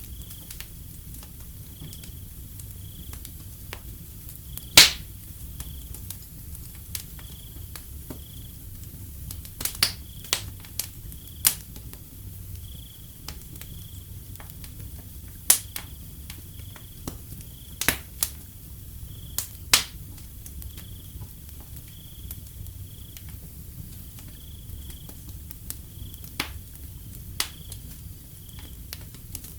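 Wood fire crackling, with a steady low rush and irregular sharp pops, the loudest about five seconds in and clusters near ten and around eighteen to twenty seconds in. Behind it, a cricket chirps at an even pace, one short high chirp about every two-thirds of a second.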